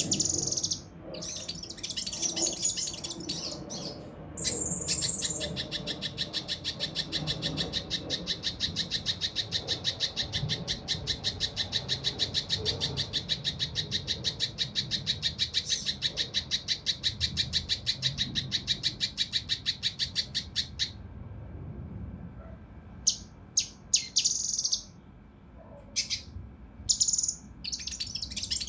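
Cucak rante mas (kinoi) singing. A few varied phrases lead into a long, fast run of harsh, tightly packed repeated notes lasting about fifteen seconds: the rough, close-set 'tembakan' burst. Short separate calls follow near the end.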